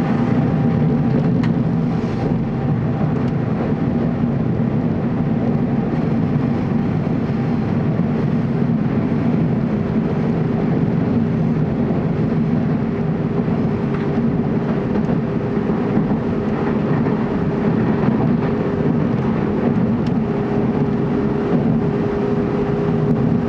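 Steady running noise heard inside a TEMU2000 Puyuma tilting electric train travelling through a tunnel: an even rumble of wheels on rails, with a faint steady whine joining about halfway through.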